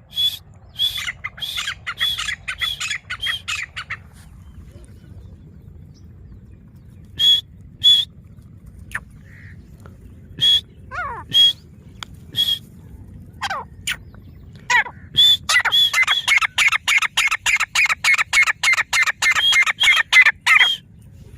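Grey francolin calling: a fast run of short, high, repeated notes, then scattered single calls, then a longer run of about four notes a second near the end.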